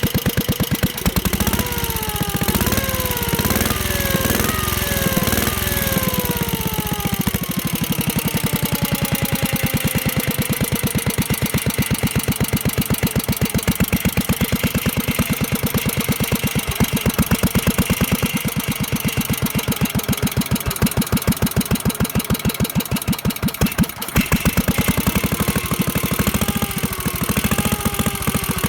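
CO.TI.EMME IDRO air-cooled, side-valve, kerosene-fuelled four-stroke stationary engine running with an even, rapid firing beat. For the first several seconds, and again near the end, a whining tone repeatedly falls in pitch and jumps back up.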